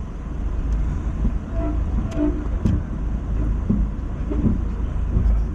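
Lifted Mazda MX-5 crawling slowly up a rocky track: the engine running low and steady under load, with scattered knocks and rattles from the car going over rocks.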